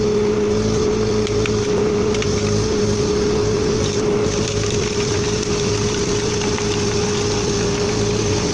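A heavy machine's engine running at a steady speed, with a constant whine over the rumble.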